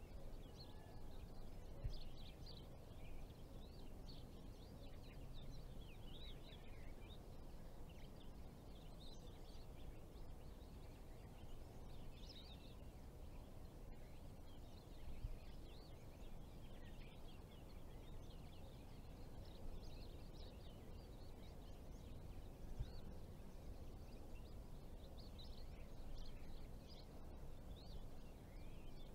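Outdoor ambience: many small birds chirping on and off throughout, over a faint, steady low rumble.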